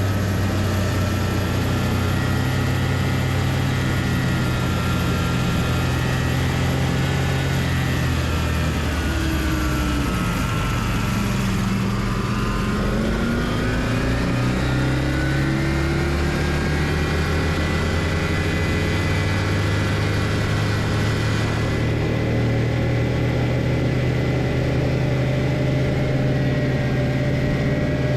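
Homemade snowmobile's Loncin engine running under way. Its revs fall about ten seconds in, then climb back up over the next few seconds and hold steady.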